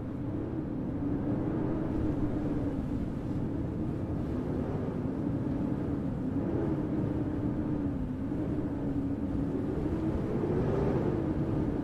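Blizzard wind blowing steadily, a deep rushing noise with a low hum that slowly wavers up and down in pitch.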